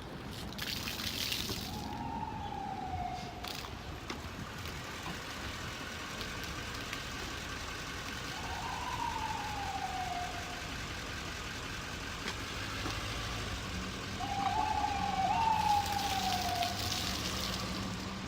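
Distant siren wailing, heard as slow falling sweeps in pitch three times, the last a double sweep. Short hissing bursts come near the start and again near the end.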